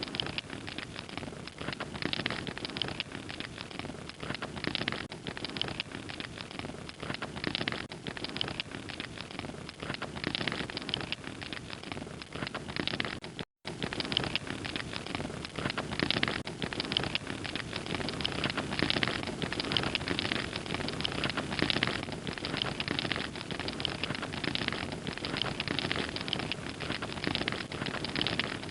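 Wood fire crackling steadily, a dense run of small pops and snaps, with a split-second dropout about halfway through.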